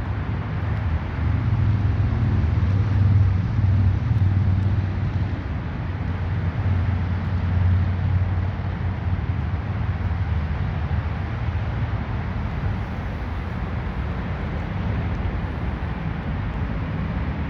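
Ford 302 small-block V8 running steadily, with a low engine note that swells a little a few seconds in and again about halfway through.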